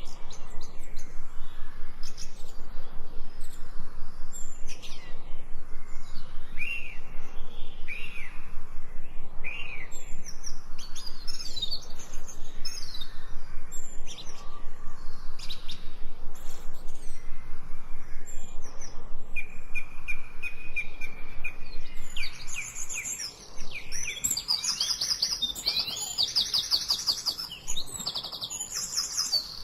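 Songbirds chirping and calling, many short repeated chirps, with a fast trill near the end.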